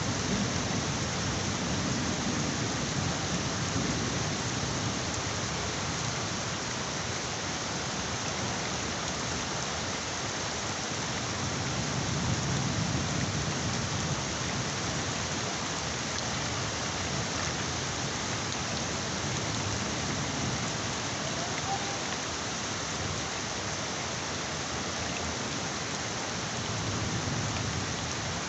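Heavy rain falling steadily, with low rumbles of thunder swelling in near the start, about halfway through and again near the end.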